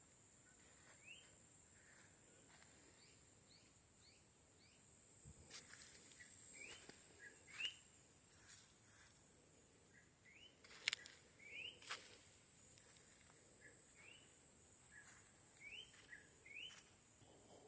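Faint, repeated short rising chirps of a small bird, over a steady high-pitched tone, with a few sharp clicks, the loudest two just past the middle.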